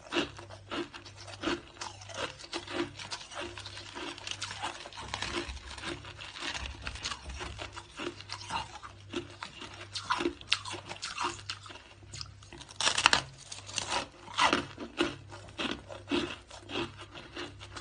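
A person chewing hard, crunchy shaved ice: a continuous run of irregular crunches, with a few louder bites near the end.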